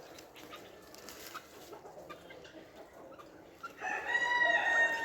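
A rooster crowing: one long, drawn-out call starting near the end, dropping slightly in pitch as it trails off.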